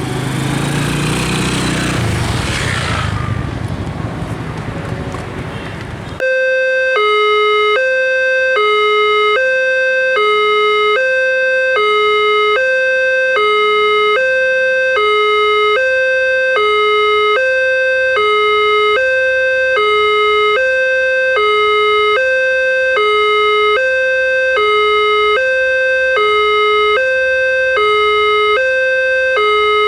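Electronic warning alarm of a railway level crossing, two tones alternating evenly about once a second. It starts suddenly about six seconds in, after a fading rush of passing-train noise.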